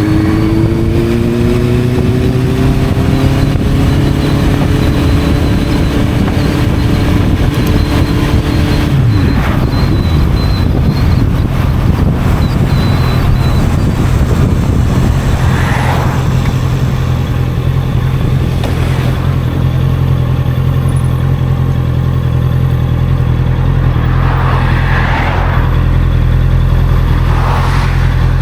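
Honda CB650F inline-four with an Arrow aftermarket exhaust under way: the engine note rises and holds for about nine seconds, then drops and settles into a steady low drone.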